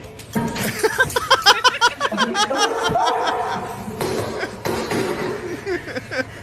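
People laughing: a run of quick, repeated bursts of laughter about a second in, followed by looser laughing and voice sounds.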